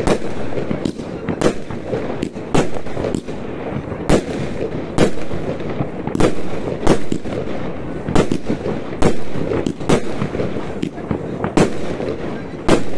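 Fireworks going off: loud sharp bangs at an uneven pace, about one to two a second, over a continuous dense background of further bangs and crackle.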